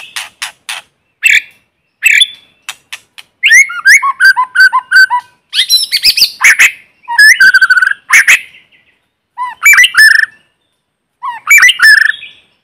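White-rumped shama singing its challenge song in a string of varied phrases: sharp clicks, quick stuttering runs of notes and loud whistled slurs, with short pauses between them.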